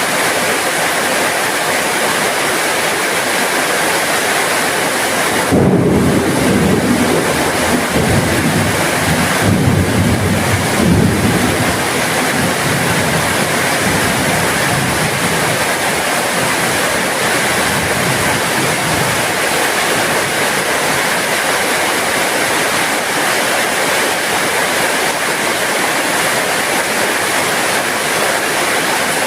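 Steady heavy rain falling. About five seconds in, a low roll of thunder starts suddenly and rumbles for several seconds before fading back under the rain.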